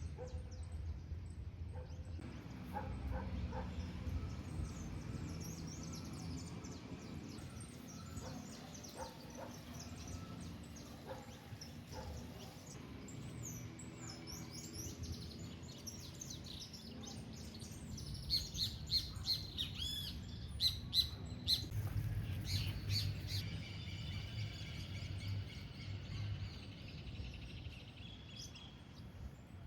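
Birds chirping and calling, with a run of quick, sharp chirps in the second half, over a low steady rumble.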